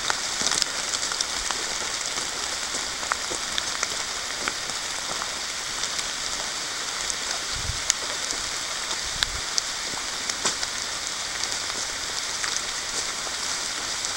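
Moderate rain falling on the forest leaves: a steady hiss sprinkled with many sharp drip ticks, with two soft low thumps in the middle.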